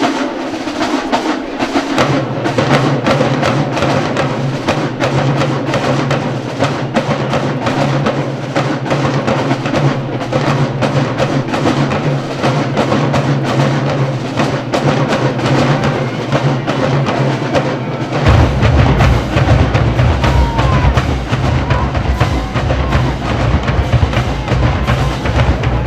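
Marching band playing a drum-heavy passage: rapid drumline strokes throughout over a sustained low part that comes in about two seconds in, with a deeper, louder bass part joining about three-quarters of the way through.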